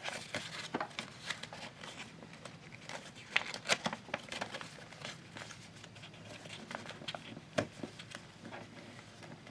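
Sheet of paper being handled and folded by hand: scattered soft crinkles and creasing clicks, a few sharper ones a few seconds in.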